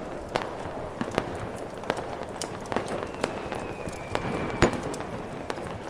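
Fireworks popping and crackling at irregular intervals over the steady rush of a snowstorm wind. About three seconds in, a faint falling whistle runs for a second and a half and ends in the loudest bang, near four and a half seconds in.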